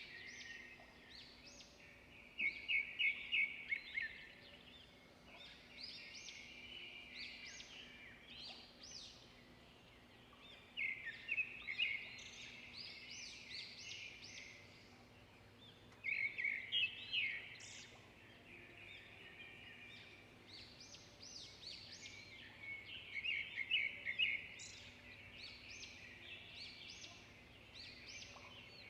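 Songbirds singing, with bursts of rapid chirps and trills every five to seven seconds over softer continuous chirping.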